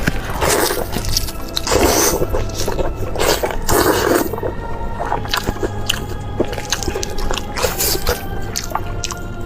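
Close-up wet eating sounds: squishy bites, slurps and smacking, in bursts with many small clicks, over steady background music.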